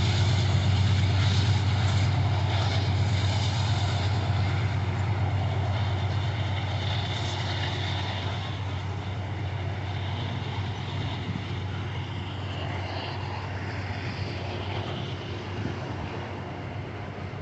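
Diesel locomotive engine with a steady low rumble, growing gradually fainter as the train moves away.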